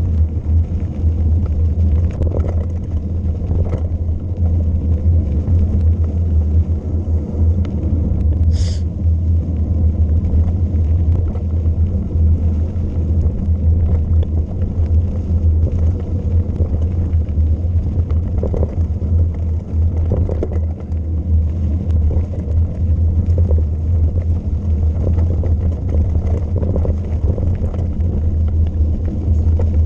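Steady low rumble of wind buffeting and rolling noise on a mountain bike's riding camera during a descent, with one short sharp click about nine seconds in.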